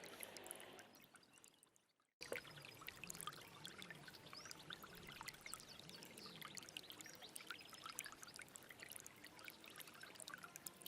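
Stream water running and trickling, with many small drips and splashes. The sound fades out over the first two seconds and falls silent for a moment, then cuts back in suddenly and runs on steadily.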